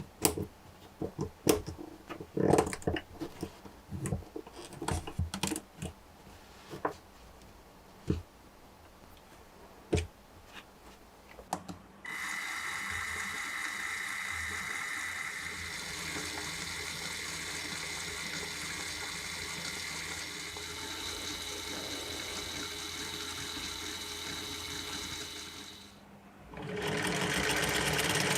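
Lego Technic parts clicking and snapping together in irregular bursts, then a Lego six-cylinder radial engine model starts spinning fast with a steady mechanical whir. The whir drops away briefly near the end and comes back louder.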